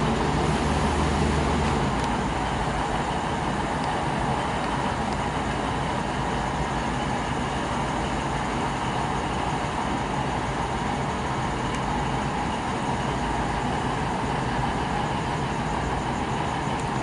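V/Line VLocity diesel multiple unit running steadily while standing at the platform, a constant engine drone with no change in pace.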